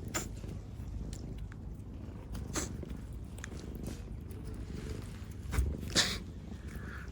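A cat purring steadily, with a few sharp clicks over it, the loudest pair about five and a half to six seconds in.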